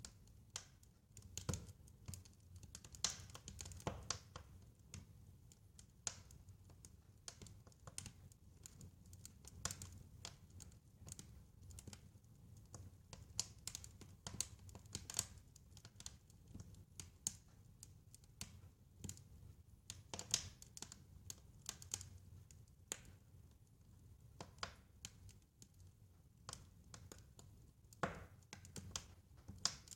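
Wood fire in a fireplace crackling, with irregular snaps and pops of varying loudness over a low steady rumble of the flames.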